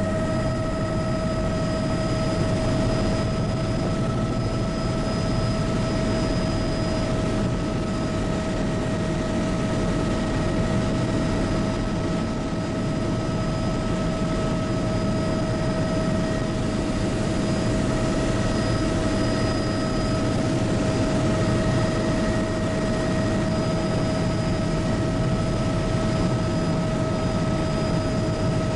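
Bell 206B JetRanger helicopter in cruise, heard from inside the cabin: the steady noise of the rotor and Allison 250 turboshaft with a constant high whine made of several fixed tones.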